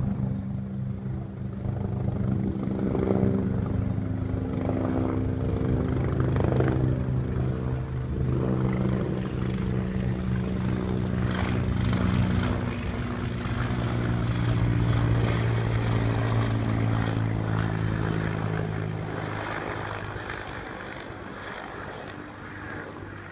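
Agusta-Bell AB 412 helicopter passing over: the steady, pulsing beat of its four-bladed main rotor holds loud, shifting slightly in pitch, then fades as it flies away over the last few seconds.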